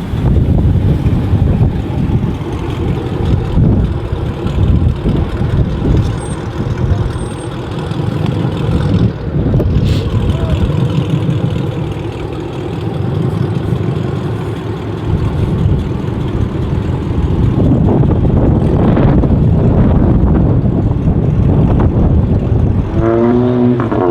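Car engine rumbling deep and steady, with traffic noise around it. A voice briefly near the end.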